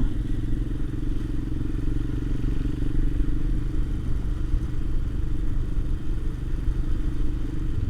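Royal Enfield Himalayan's single-cylinder engine and exhaust running steadily at an even cruising speed.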